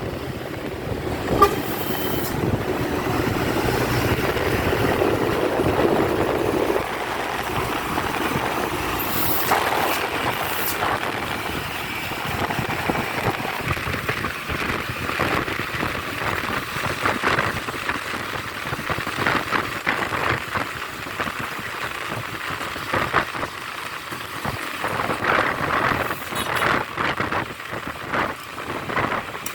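Dump truck running, with a fuller, steadier sound in the first several seconds and irregular sharp knocks and clatters later on.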